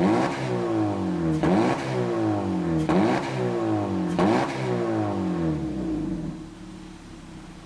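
Honda Step WGN (RK5) exhaust, with a custom front silencer, straight-through centre pipe and Mugen rear silencer, as the engine is blipped four times, each rev rising sharply and falling back. Near the end it settles to a quieter idle.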